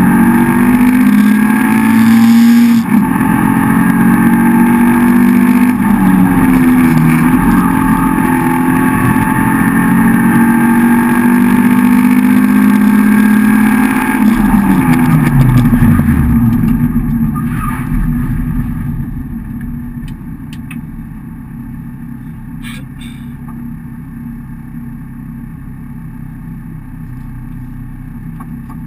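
Rally car's engine heard from inside the cabin, driven hard with brief dips in the note as gears change. About fifteen seconds in, the revs fall steeply away as the car slows, and the engine runs on much quieter and lower for the rest.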